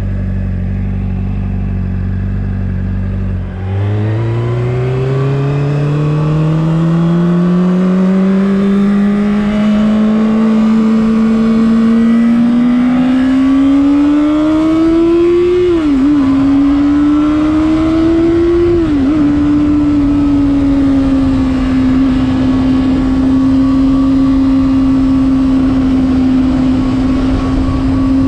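2026 Honda CBR600RR inline-four engine accelerating hard under a riding rider. After a few steady seconds at lower revs, the engine note climbs continuously for about twelve seconds. It then drops briefly twice in quick upshifts and settles into a steady high-revving cruise.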